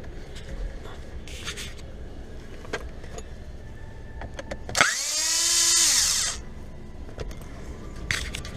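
Power drill run once for about a second and a half near the middle, its motor spinning up, whirring steadily and winding down. Scattered clicks and rustles of handling come before and after it.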